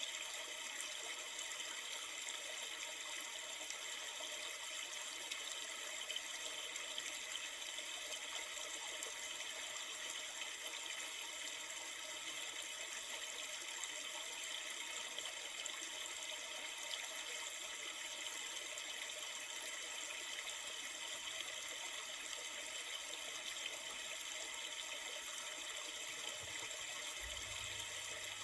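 Steady rushing and trickling of a river, an even flow of running water that holds unchanged throughout.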